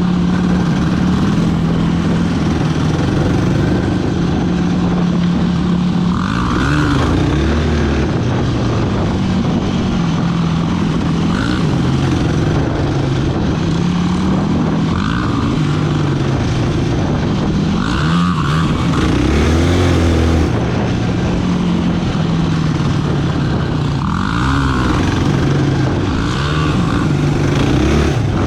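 Sport ATV's single-cylinder engine running under way as it is ridden, the revs holding steady for stretches and rising and falling several times.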